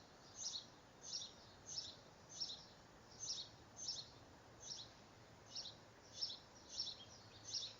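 A small songbird repeating a short, high chirp about every two-thirds of a second, with a brief pause near the middle, over a faint steady hiss.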